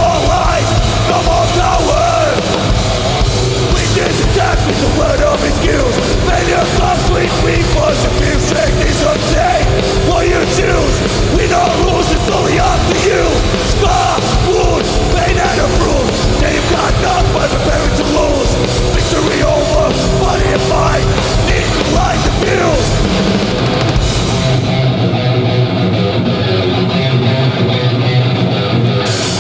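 Hardcore punk band playing live through a PA: distorted electric guitars, bass and drums with cymbal crashes. About five seconds before the end the drums and cymbals drop out, leaving a low guitar chord ringing on.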